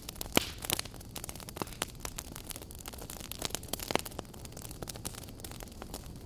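Wood fire burning in a fireplace, with irregular sharp crackles and pops over a steady low hiss; a cluster of louder pops near the start and another about four seconds in.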